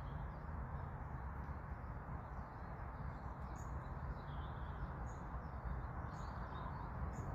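Faint, short, high bird chirps scattered over a steady low outdoor rumble.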